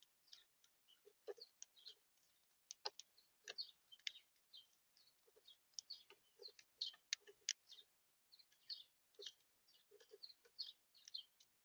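Faint, rapid, irregular chirps and short calls from small birds at a feeder.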